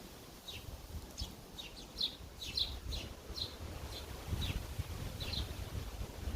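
Sparrows chirping: about a dozen short, slightly falling chirps at irregular intervals, some in quick pairs.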